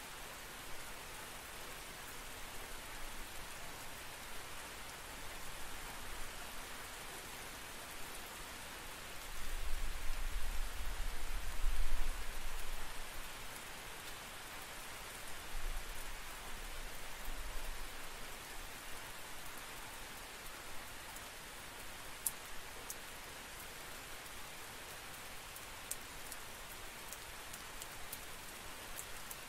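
Steady rain falling, with a deep rumble of distant thunder swelling about ten seconds in and a weaker rumble a few seconds later. A few sharp close drops ticking near the end.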